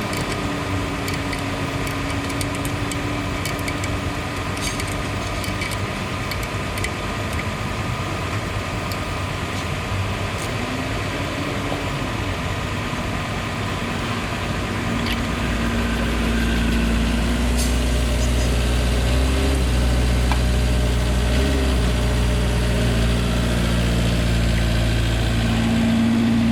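Ashok Leyland bus engine running steadily, likely to drive the AC for the test after the filter drier swap; about fifteen seconds in it grows louder and heavier as the engine speed rises.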